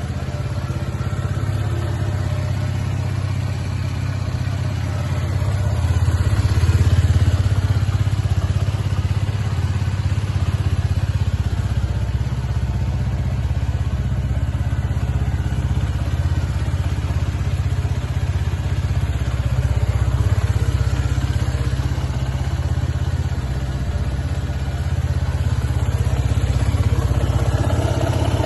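Suzuki Gixxer 250SF motorcycle's single-cylinder engine idling steadily.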